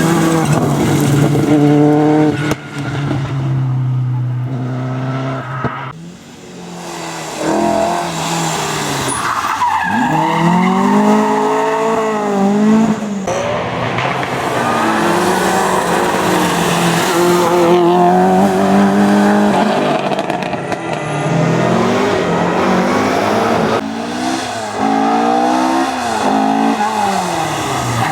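Rally cars driven hard on a stage, engines revving high and dropping with each gear change and lift, in several separate passes.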